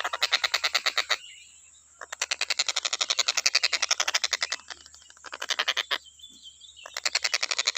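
Tengkek buto calling in a rapid, evenly pulsed rattling trill of about a dozen notes a second, broken by three brief pauses.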